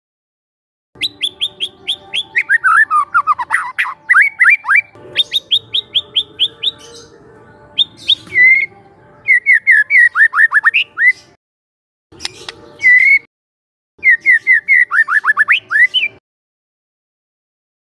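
Young white-rumped shama (murai batu) singing: rapid runs of sharp, downward-sweeping whistled notes in repeated phrases of a few seconds. The phrases are broken by short silent gaps, about a second in, near the middle and near the end.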